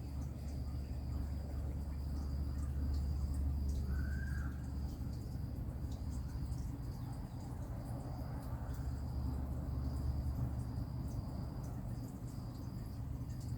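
Insects chirping steadily at a high pitch, cricket-like, over a low rumble, with one short bird note about four seconds in.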